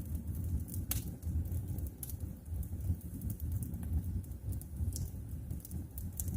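Wood fire burning in a fireplace: a steady low rumble of flames with scattered sharp crackles and pops, one louder pop about a second in.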